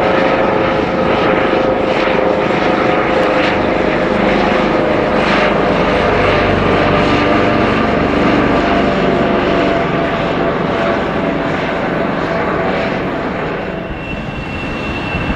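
A fixed-wing aircraft passing close, its engines running loud and steady, with several engine tones slowly sliding down in pitch as it goes by; the sound eases off near the end.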